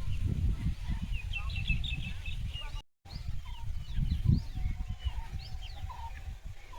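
Small birds chirping in short rising and falling calls over a low, uneven rumble. The sound cuts out completely for a moment about three seconds in.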